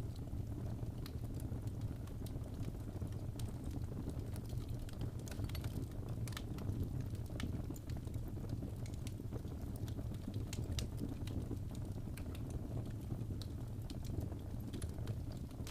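Fire in a fireplace crackling: irregular sharp pops and snaps, some in quick clusters, over a steady low rumble of the flames.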